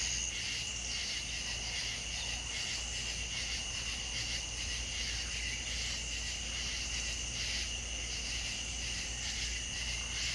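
Insects trilling in a steady chorus: a continuous high-pitched trill with a fine, even pulse, over a low steady hum.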